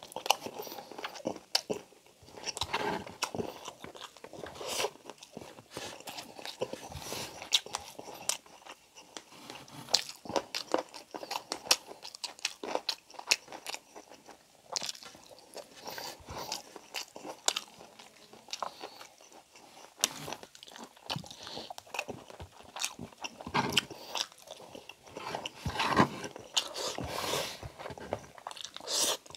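A man chewing braised pork belly and rice with his mouth open to the microphone, with many irregular short smacking and clicking mouth sounds, louder in clusters now and then.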